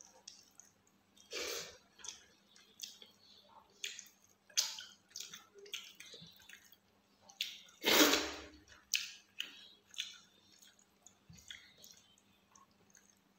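Close-miked eating sounds: wet chewing, lip smacks and squishing as rice and fish curry are mixed and eaten by hand, as a run of short clicks and smacks, with one much louder wet burst about eight seconds in.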